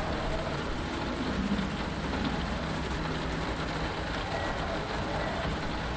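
Steady rain falling on a cockpit canopy, with scattered faint drop ticks over a steady low rumble.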